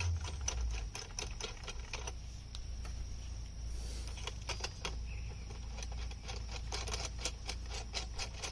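Small steel nuts being spun by hand onto U-bolt threads: rapid, irregular small metallic clicks and rattles, over a steady low hum.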